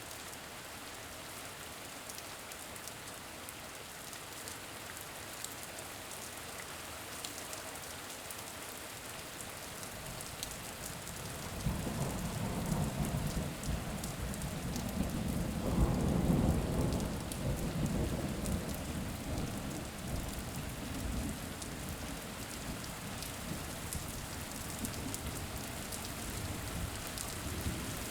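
Steady rain with a long roll of thunder that swells up about twelve seconds in, is loudest around sixteen seconds, then slowly rumbles away under the rain.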